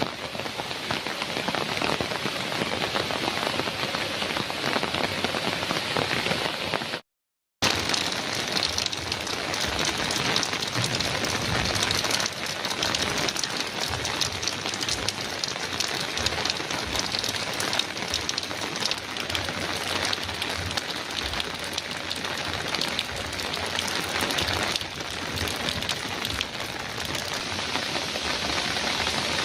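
Heavy rain drumming steadily on a metal roof, a dense even hiss of drops. It drops out to silence for about half a second around seven seconds in.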